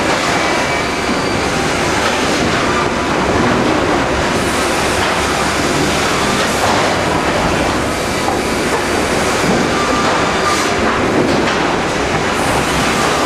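Pallet-board sawmill line running: a steady, loud mechanical noise of the machinery.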